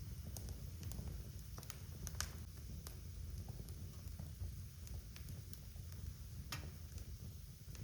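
Wood fire crackling in a fireplace: a steady low rumble of burning with scattered sharp pops and snaps, the loudest about six and a half seconds in.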